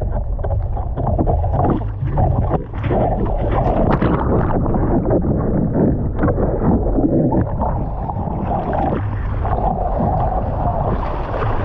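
Sea water splashing and sloshing close to the microphone in choppy surf, with wind buffeting the microphone.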